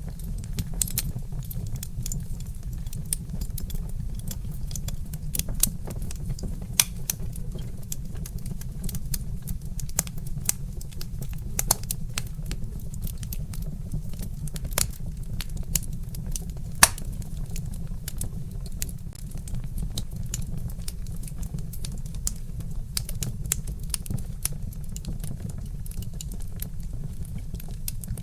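Wood fire crackling, with irregular sharp snaps and pops over a steady low rumble; one louder pop comes about two-thirds of the way through.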